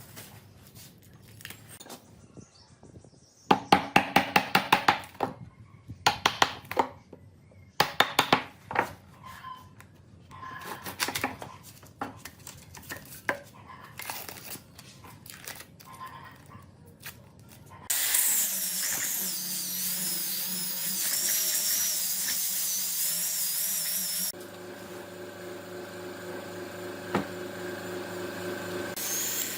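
Woodworking hand and power tools: a scatter of sharp knocks and taps, with a quick run of about seven loud strikes a few seconds in. About two-thirds of the way in, a power tool starts running loudly with a wavering high whine. It changes suddenly to a quieter, steady motor hum.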